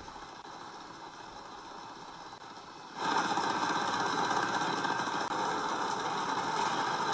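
A small petrol engine running with a steady buzz. It comes in suddenly and much louder about three seconds in, after a faint steady hum.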